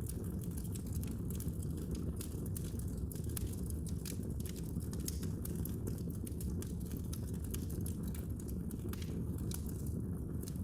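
Wood fire burning in a fireplace: a steady low rumble of flame with frequent small, sharp crackles and pops, several a second.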